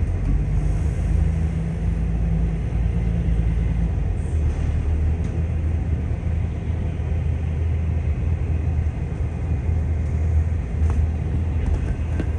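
Steady low rumble and drone of an Irish Rail Class 22000 diesel railcar running, heard from inside the carriage. A slightly higher hum sits over the drone for the first few seconds.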